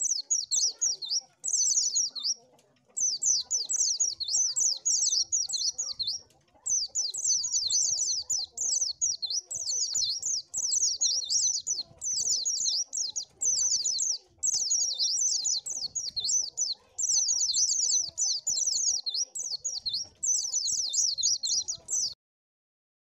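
White-eye (pleci) song: long runs of rapid, high twittering chirps in bursts separated by brief pauses, stopping abruptly near the end.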